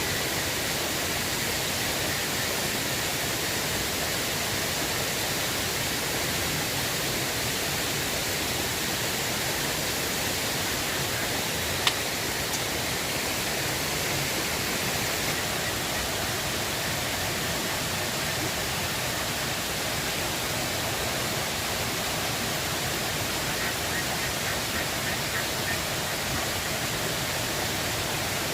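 River water rushing steadily, with one sharp click about twelve seconds in.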